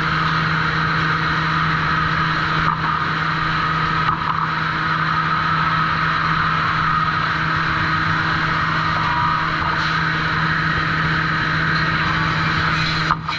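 Sawmill trim saw machinery running steadily with a constant low hum and a rushing whine. The sound dips briefly a few times.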